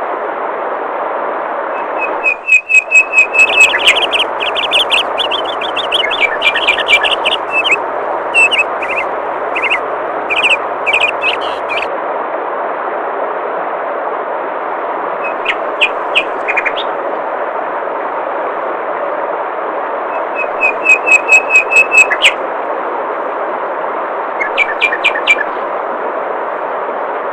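Steady rush of flowing water with songbirds chirping over it in bouts: quick runs of high repeated chirps from about two seconds in to about twelve seconds, then shorter runs around sixteen, twenty-one and twenty-five seconds.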